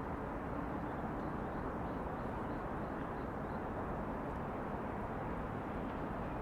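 Steady, even hum of distant city traffic, with a few faint high chirps between about one and three and a half seconds.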